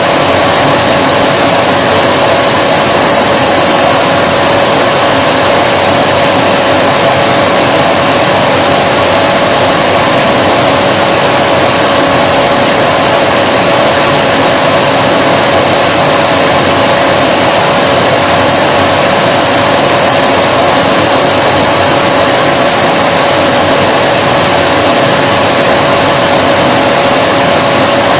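Vacuum cleaner running steadily, a loud even rushing noise with a constant hum on top that never changes.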